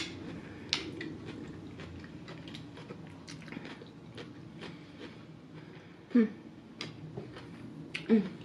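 Close-miked chewing and eating, with many small wet mouth clicks and smacks. Two brief, louder sounds come about six and eight seconds in.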